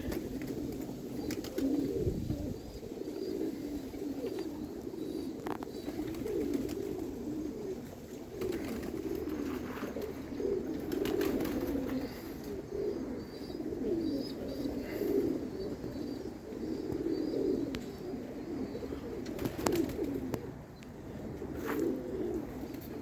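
Domestic pigeons cooing, many low, overlapping coos running on without a break, with a few faint clicks over them.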